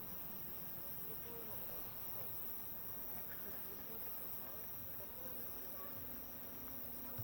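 Faint outdoor ambience of insects chirping steadily, with a low steady hum coming in about five seconds in.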